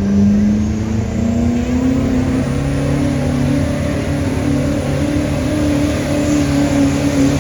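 Pickup truck engine running hard under load while pulling a weighted sled, its revs climbing slowly and steadily.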